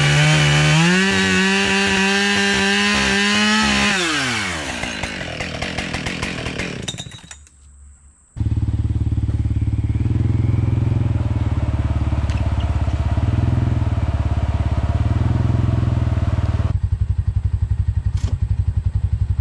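Small gasoline engine running at high throttle, then its pitch falls away as it is let off and winds down. After a brief lull, a low engine idles with a steady pulsing rumble.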